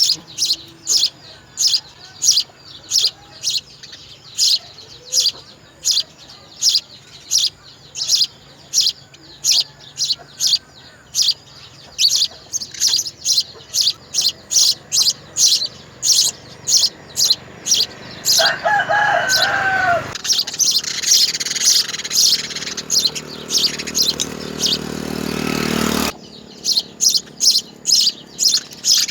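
Nestling birds chirping over and over, about two or three high chirps a second, the begging calls of hungry chicks. A lower, wavering call from another bird sounds briefly about eighteen seconds in, followed by a rising rush of noise that cuts off suddenly a few seconds later.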